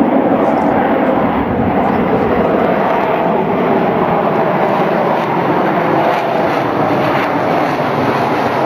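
Su-27 fighter jets flying an aerobatic display, their turbofan engines heard from the ground as a loud, steady rushing noise with no clear rise or fall.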